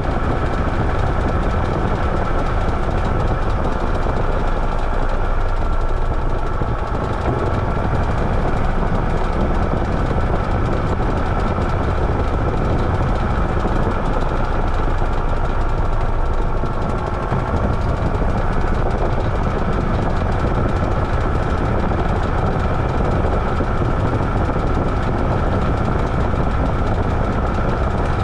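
Washing machine running mid-cycle: a steady mechanical rumble and water churning, with a thin steady motor whine above it and two brief slight dips in level.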